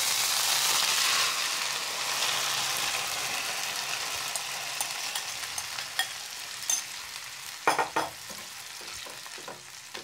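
Yogurt-marinated chicken sizzling in hot ghee in a non-stick pan. The hiss is loudest at first and slowly dies down as a silicone spatula stirs and scrapes the pieces. A few sharp knocks of the spatula against the pan come about three-quarters of the way through.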